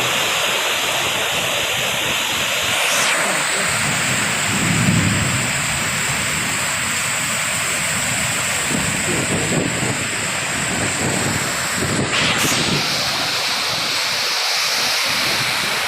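Heavy rain pouring down steadily in a rainstorm, a dense continuous hiss, with a low rumble swelling about five seconds in.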